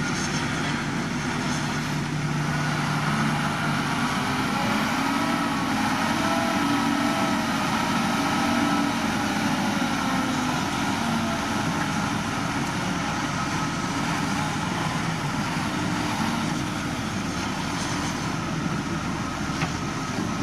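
Diesel engine of heavy earthmoving machinery running steadily, its pitch wavering slightly as the machine works.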